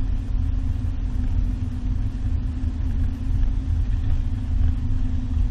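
Car driving, heard from inside the cabin: steady low engine and road rumble.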